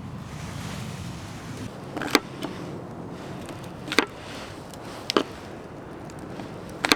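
Four sharp knocks, spaced one to two seconds apart, over a steady low outdoor hiss.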